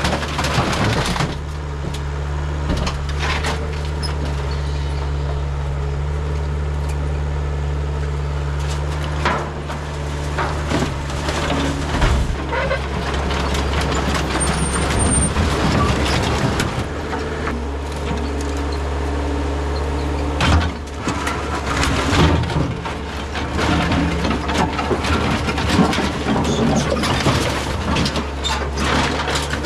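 Kubota KH040 excavator's diesel engine running steadily while the machine works, with scattered knocks and clanks.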